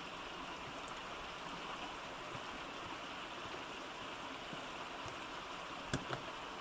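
Steady rush of flowing water, with two sharp knocks near the end, the first louder.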